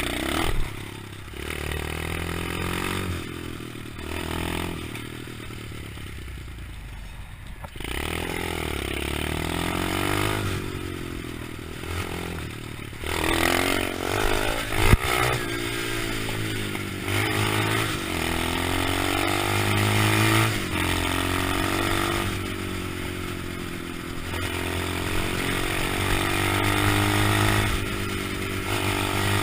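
Engine of a 125cc pit bike running and being revved up and down repeatedly, its pitch rising and falling, with a sharp knock about halfway through.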